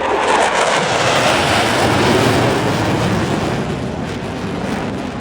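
Jet aircraft roaring past fast at an airshow, the roar loudest in the first couple of seconds and slowly fading as it moves away.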